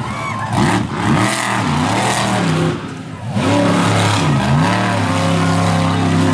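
Monster truck engine revving hard, its pitch rising and falling several times as the throttle is blipped, dipping briefly about three seconds in, then held at a steady high pitch near the end.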